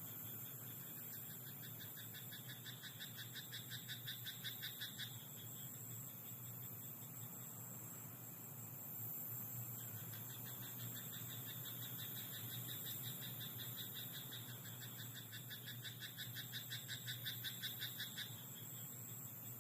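Frogs croaking in a rice paddy at night: two long bouts of rapid, evenly pulsed calls, the first from about a second in to about five seconds, the second from about ten seconds in to near the end. Under them runs a steady, faint high-pitched hiss.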